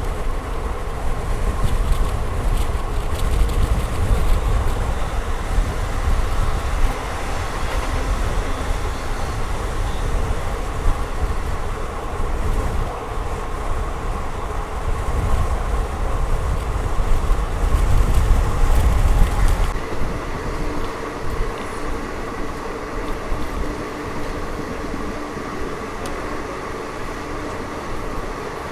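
Passenger express train running along the track: a steady rumble of wheels on rail with a faint hum. The deep low rumble drops away about twenty seconds in.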